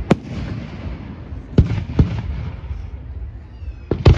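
Aerial fireworks bursting: single sharp bangs about a second or more apart, then a quick cluster of several bangs near the end, over steady crackling. Faint whistles sound just before the final cluster.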